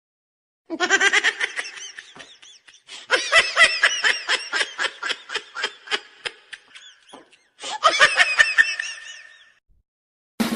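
Cartoon laughter sound effect: rapid rhythmic laughing in three bouts with short silences between, the middle bout the longest.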